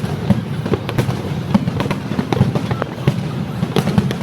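Fireworks going off in a dense, irregular barrage of bangs and pops, several a second, with a low rumble between them.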